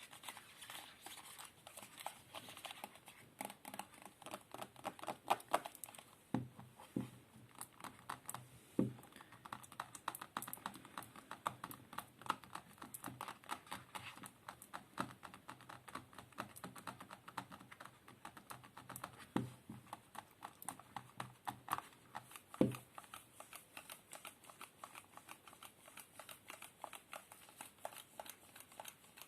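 ASMR trigger sounds: a dense, irregular run of light tapping and clicking close to the microphone, with a few louder knocks scattered through it.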